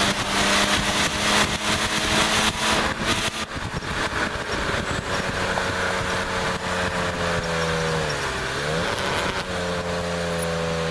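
BMW E36 325is's 2.5-litre straight-six engine running hard at track speed under heavy wind and road noise. From about four seconds in the engine note slowly falls. It dips and climbs back near eight seconds, then breaks off briefly and returns slightly higher, easing down again.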